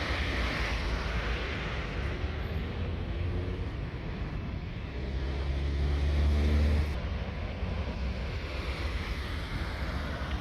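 Jet airliner's turbofan engines at takeoff power, a steady deep rumble with a hiss. It swells with a low hum about halfway through, then drops back suddenly a couple of seconds later.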